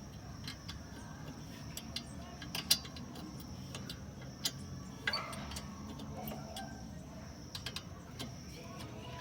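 Scattered sharp metallic clicks and clinks of hand tools and parts being handled during car brake work, the loudest about two and a half seconds in.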